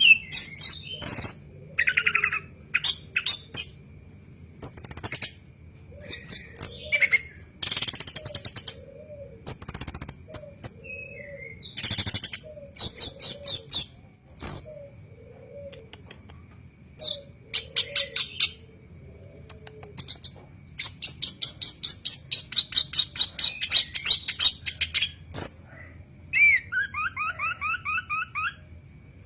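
Orange-headed thrush (anis kembang) singing a varied song in loud bursts of high chirps, trills and whistled notes with short pauses between them. A long rapid run of notes comes a little past the middle, and near the end a phrase of repeated two-part whistles.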